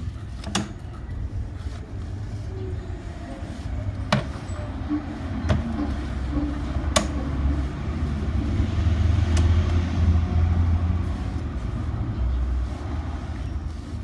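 Low rumble of a motor vehicle engine, growing louder about eight seconds in and easing off a few seconds later, with a handful of sharp clicks and knocks scattered through it.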